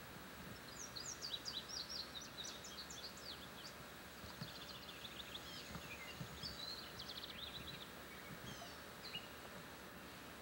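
A songbird singing rapid runs of high chirps: a long run about a second in, another around the middle and a few short notes near the end, over steady tape hiss.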